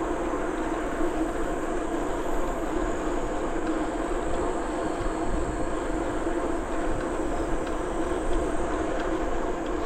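Bicycle rolling steadily along a trail: a continuous hum of tyres on the path mixed with wind rushing over the camera microphone.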